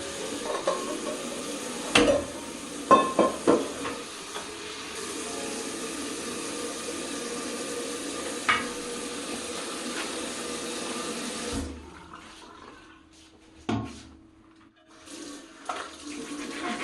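Water running steadily, with several sharp knocks and clatters, then cutting off about twelve seconds in, followed by a few scattered knocks.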